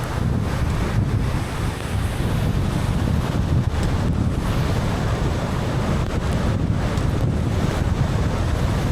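Steady road noise of a car driving on wet streets in the rain: a low rumble with tyre hiss over it.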